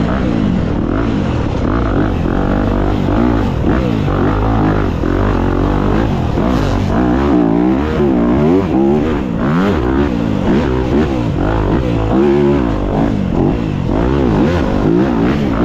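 Dirt bike engine revving up and down again and again, its pitch rising and falling every second or so as the bike is ridden through tight woods singletrack.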